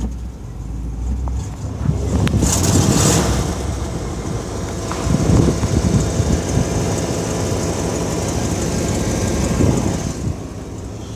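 1986 Cadillac Fleetwood Brougham's V8 running, heard from inside the car with road and tyre noise. It gets louder about two seconds in and eases off near the end.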